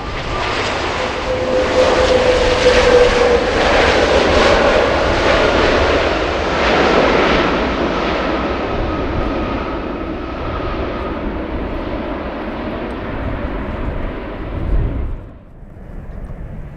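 Jet airliner's engines passing close by: a loud rushing noise with a whine that dips slightly in pitch as the aircraft goes past, then slowly easing off. The sound cuts off suddenly about fifteen seconds in.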